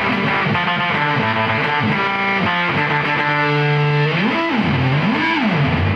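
Electric guitar, a Squier Jazzmaster on its neck pickup, played through a triple fuzz pedal with thick, sustained distorted notes. Near the end the pitch swoops down and back up twice.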